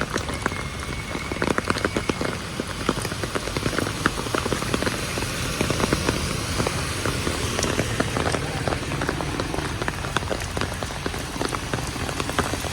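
Heavy tropical rain falling hard, with a dense, steady hiss and many individual drops striking close by.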